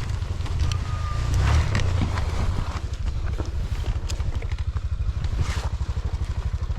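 Off-road motorcycle engine running at low revs with an even putt-putt beat, picking up briefly about a second and a half in.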